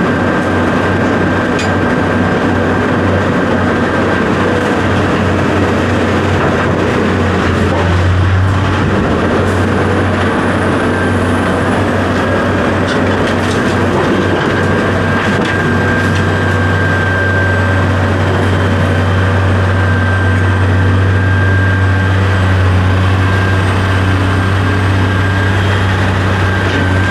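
A heavy engine running steadily without letup, with a thin high whine held over it.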